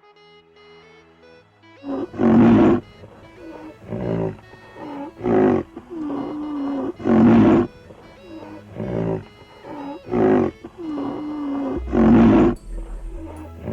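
An animal giving a long series of deep, rhythmic roaring calls, one about every second and a half, with lower moaning sounds between the loudest calls, over faint background music.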